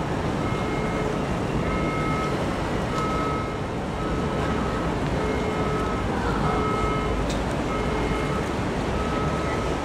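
Steady outdoor background noise, with an electronic beep repeating about once a second, each beep about half a second long.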